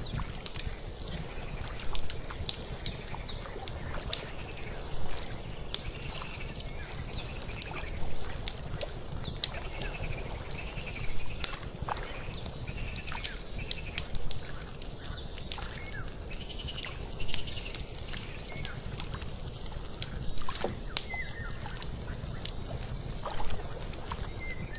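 Water lapping in small splashes about every three seconds, over the steady crackle and pops of an open fire, with faint bird chirps now and then.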